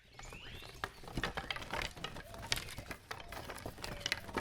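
Rapid, irregular light tapping and clicking, with a short falling chirp at the very start.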